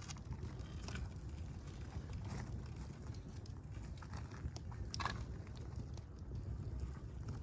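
Fire burning, with a steady low rumble and scattered crackles and pops, one louder pop about five seconds in.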